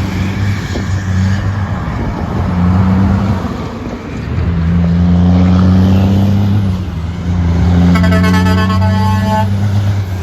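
Heavy truck's diesel engine pulling hard past, its pitch climbing and dropping twice as it shifts gears. A horn chord sounds for about a second and a half near the end.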